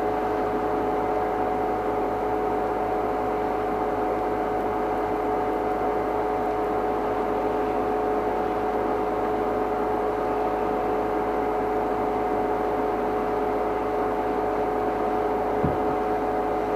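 A steady hum with two held tones over an even hiss, unchanging throughout.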